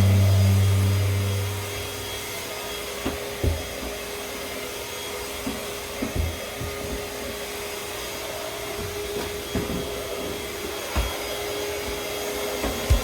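A small motor whirring steadily with a faint steady hum, and a few light knocks and bumps. The tail of a song fades out in the first two seconds.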